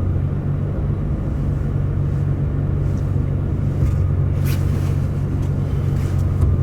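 Steady low rumble of a car's engine and road noise heard from inside the cabin while driving, with a brief faint click about four and a half seconds in.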